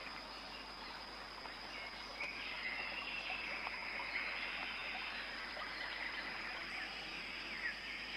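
Rainforest ambience: a steady, high-pitched insect drone over an even hiss, with faint bird calls.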